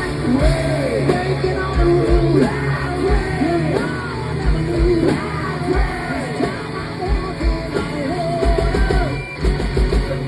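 Live hard rock band playing at full volume, with drums keeping a steady beat under a lead line that bends up and down in pitch.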